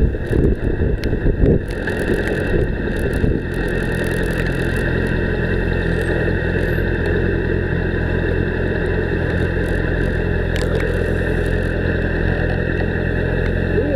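Motorcycle engine idling steadily, settling in about three and a half seconds in after a stretch of uneven noise and knocks.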